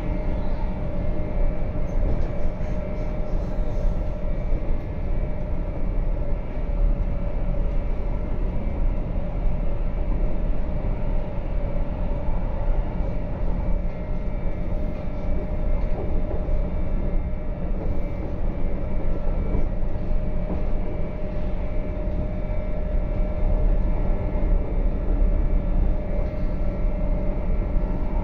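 RABe 526 electric multiple unit running at speed, heard from inside the passenger car: a steady rolling rumble of wheels on rail with a steady hum held over it.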